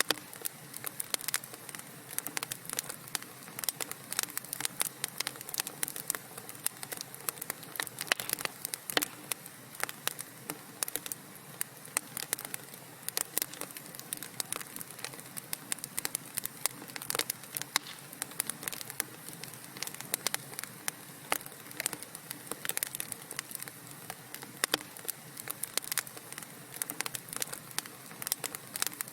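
Wood fire burning in a fireplace, with many quick irregular crackles and pops over a faint steady hiss.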